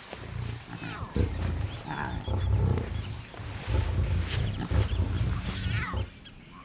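Lion growling: a low rumble that swells and dips in several long stretches and stops near the end.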